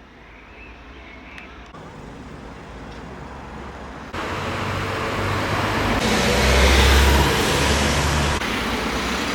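Road traffic and street noise in several short clips: a steady wash of passing cars with a low rumble. It gets louder a few seconds in and loudest near the end.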